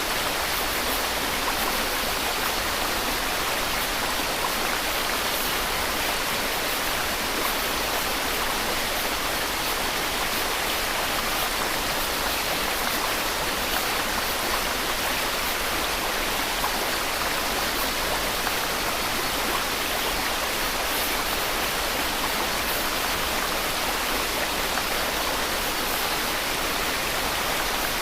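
Steady white noise: an even, unchanging hiss with no breaks or separate events.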